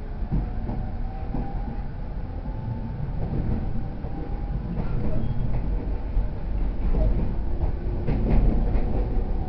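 Interior running sound of a JR East E231 series 0 commuter train: a steady low rumble of wheels on rail with a faint, slowly rising motor whine as it gathers speed, growing louder with a few rail-joint clicks near the end.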